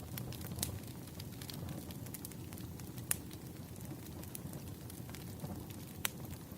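Wood campfire crackling, with many small pops and the sharpest snaps about half a second, three seconds and six seconds in, over a low steady rumble.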